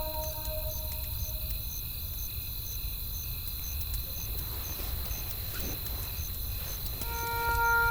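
Night ambience: a cricket chirping steadily, about two to three chirps a second, over a low, steady rumble of wind, with a few faint crackles from a wood fire. Sustained music tones die away about a second in, and new ones come in near the end.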